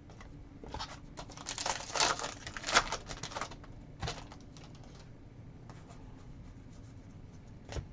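A trading-card pack wrapper being torn open and crinkled: about three seconds of dense crackling, then a few single clicks.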